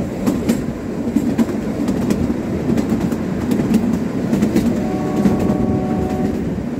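Kalka–Shimla narrow-gauge toy train running, heard from inside a carriage by an open window: a steady rumble of wheels on track with irregular clicks from the rail joints. A faint steady whine joins for about a second and a half near the end.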